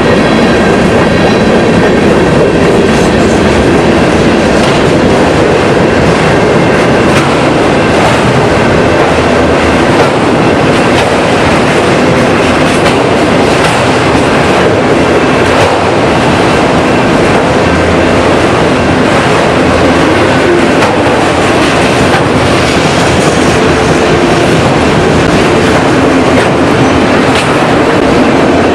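Train rolling along the rails: a loud, steady rumble of wheels on track with faint clicks over the rail joints.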